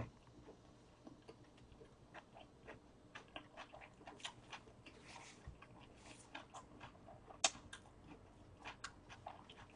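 Faint close-up chewing of a burger: irregular soft clicks and wet mouth sounds, with one sharper click about seven and a half seconds in.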